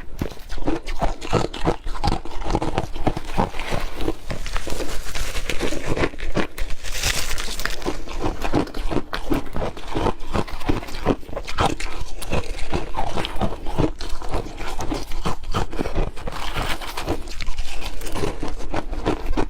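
Hard crushed ice being chewed, close to the microphone: a dense, unbroken run of sharp crunches.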